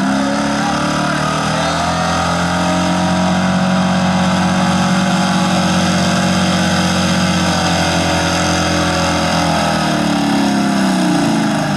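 A four-wheel-drive pickup truck's engine at high revs pulling a 6000 lb truck-pull sled: the pitch climbs over the first couple of seconds, holds steady and loud for most of the run, then drops away near the end as the throttle comes off.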